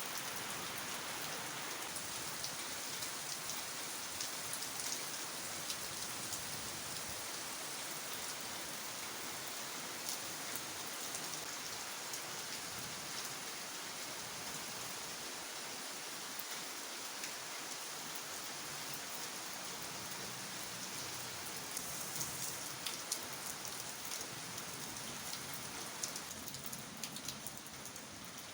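Heavy rain falling steadily: an even hiss with many small, sharp drop strikes.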